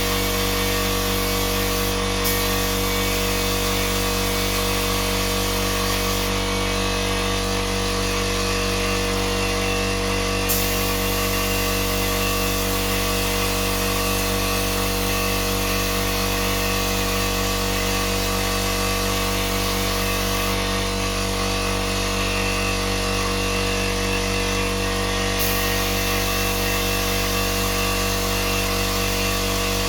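An electric power tool's motor running steadily without pause, a constant whir with a steady hum.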